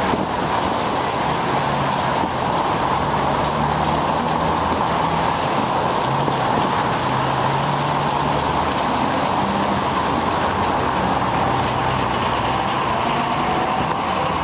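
Steady rush of wet-road noise while cycling in the rain: tyres hissing on wet pavement, with motor traffic running alongside.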